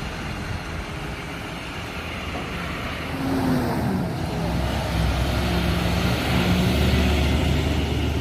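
Diesel engine of a dumpster delivery truck running low, then louder from about three seconds in as it pulls away, its engine note sliding down and then holding steady.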